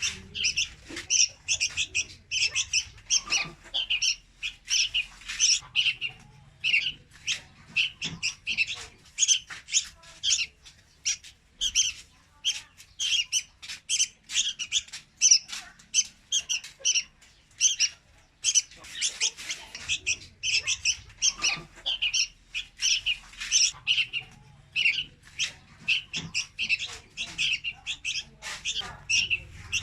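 Young red-whiskered bulbul (chào mào) calling: a rapid, unbroken run of short, high chirps, several a second.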